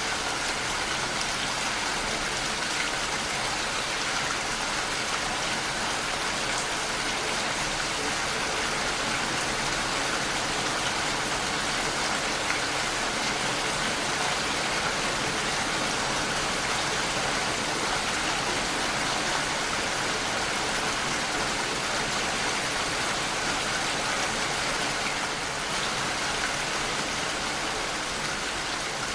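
Steady rain pattering against a window pane, an even unbroken hiss of drops.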